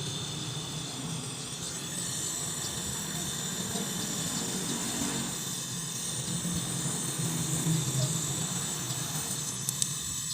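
Steady hiss of a gas brazing torch flame, used to solder the refrigerator's filter dryer onto the condenser line.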